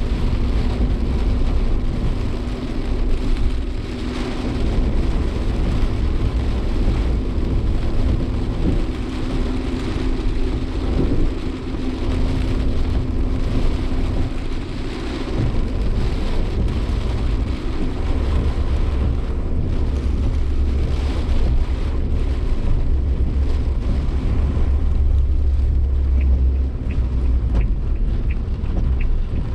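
Cabin noise of a Suzuki Jimny Sierra driving through typhoon wind and rain: a steady low engine and road rumble with rain hitting the body. A few light, evenly spaced ticks sound near the end.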